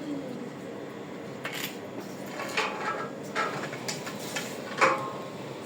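A few scattered sharp metallic clicks and knocks of small metal parts being handled, the loudest near the end.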